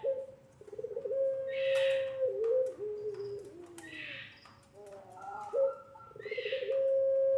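Puter pelung turtle dove giving its long drawn-out coo twice: each time a steady held note that steps down in pitch and wavers at the end.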